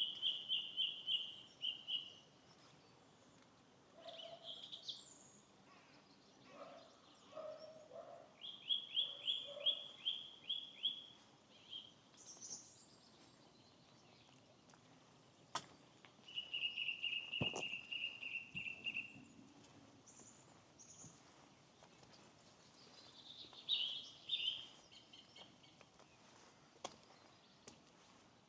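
Wild birds singing: a short, high, even trill of about two seconds, repeated four times a few seconds apart, with lower short calls in between. A couple of sharp clicks come about halfway through.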